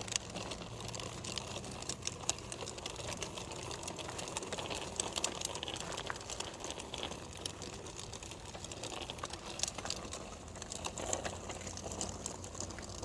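Bicycle rolling along with rapid, irregular clicking and rattling.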